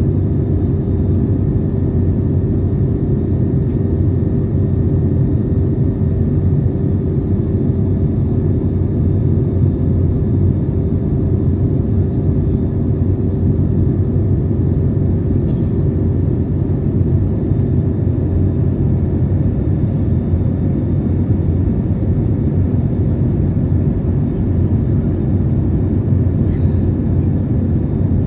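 Steady cabin noise of a passenger airplane in flight: an even rushing drone of engines and airflow, heaviest in the low end, with a steady hum tone running through it.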